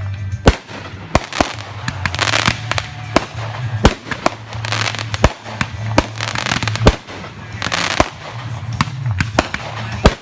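Aerial fireworks going off in quick succession: about fifteen sharp bangs in ten seconds, with three stretches of crackling shells fizzing between them.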